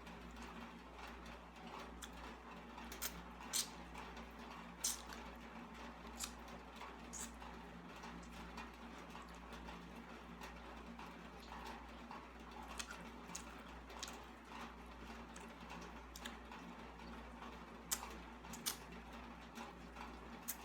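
Close-up eating sounds: chewing and wet mouth sounds, with about a dozen scattered sharp clicks over a steady low hum.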